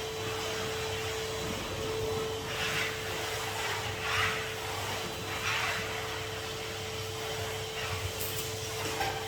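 Numatic Henry HVR200 620-watt cylinder vacuum cleaner running steadily, its motor giving an even hum and whine, with three brief swishing surges in the middle.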